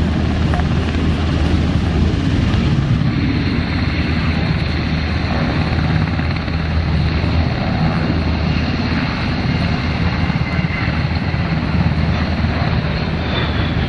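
Sikorsky HH-60G Pave Hawk helicopter running: a steady, loud mix of rotor and turboshaft engine noise with a constant low drone.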